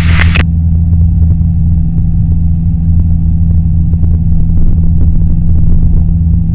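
Steady drone of a twin piston-engine aircraft's running engine and propeller heard inside the cockpit, with the left engine shut down and being restarted in flight after a simulated engine-fire drill.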